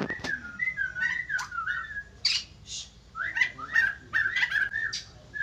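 White-crested laughingthrush singing: two runs of quick gliding whistled notes, one at the start and one from about three seconds in, with sharp chip notes mixed in.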